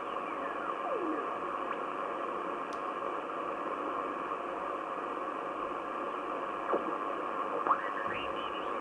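Grundig Satellit 3400 world receiver on the shortwave SW9 band giving a steady hiss of static, with no speech or music heard. A few faint whistles glide in pitch, one falling about a second in and others rising near the end.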